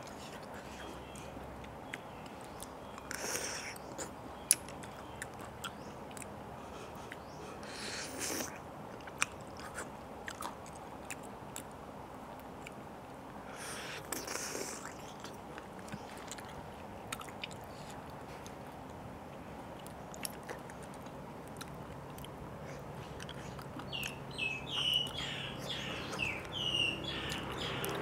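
Close-up mouth sounds of a person eating a wet, spicy cockle-and-noodle salad by hand: soft chewing with small clicks and a few louder wet moments. Birds chirp near the end.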